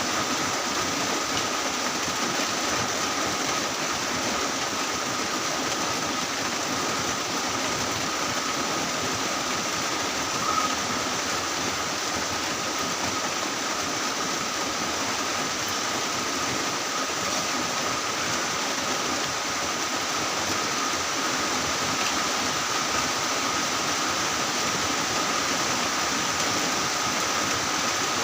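Heavy rain falling steadily, a dense even hiss that holds at the same level throughout. A thin steady high tone runs beneath it, and a single brief tick stands out about ten seconds in.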